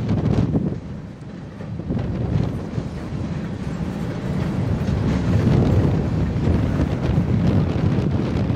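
Freight train of empty covered hopper cars rolling past with a low rumble, while wind buffets the microphone.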